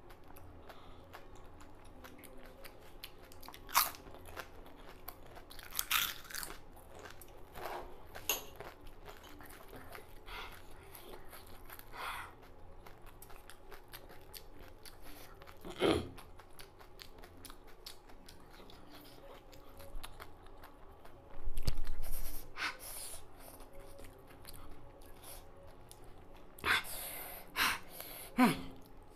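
Crisp panipuri (golgappa) shells crunching and being chewed close to the microphone, with scattered sharp crunches. About three-quarters of the way through there is a loud, dull noise lasting about a second.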